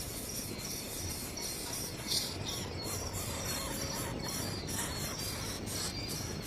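Insects chirping in a steady, pulsing trill, with a few short high bird chirps, one louder about two seconds in.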